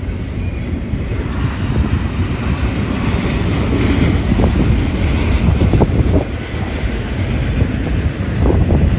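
BNSF intermodal freight train rolling past at speed: a steady rumble of wheels on rail, with scattered sharp clacks as wheels cross rail joints. Wind buffets the microphone.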